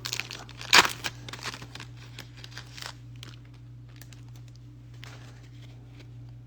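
Foil booster-pack wrapper crinkling as it is handled, loudest just under a second in, then a few fainter crinkles that die away by about three seconds, over a steady low hum.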